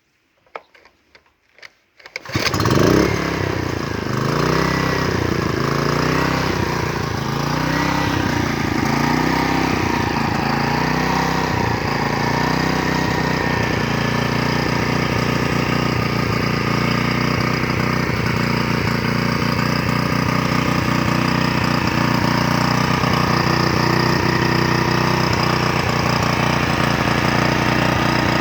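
A few light knocks, then the small engine of a Koshin SEM-50W engine pump starts about two seconds in. Its speed rises and falls repeatedly for several seconds, then it settles into steady running.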